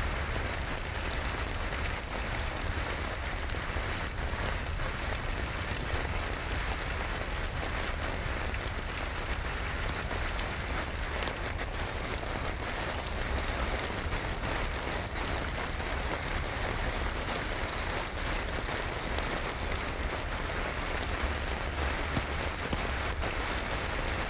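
Steady, even rainfall with many scattered sharp ticks of drops and a low rumble underneath.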